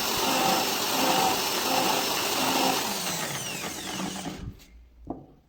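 Electric drill running steadily, spinning the starter motor's armature so its worn commutator can be dressed. About three seconds in the drill is released and spins down with a falling whine, stopping after about a second, and a single small click follows near the end.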